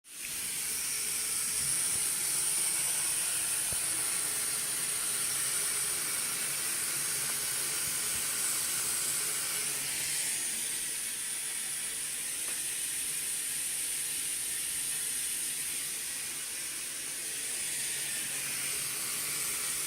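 Water running steadily from a faucet, a continuous hissing rush.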